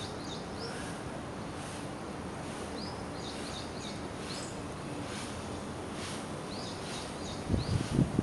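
Outdoor background noise with birds chirping, short high chirps that come in small groups. Near the end there is a short burst of low rumbling thumps.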